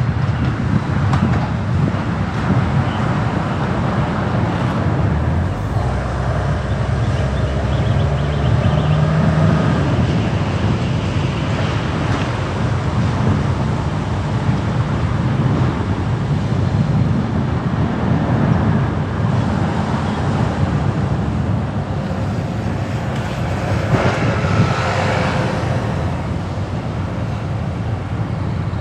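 Car driving on city streets: a steady low rumble of tyres and engine, with a brief louder swell of passing traffic near the end.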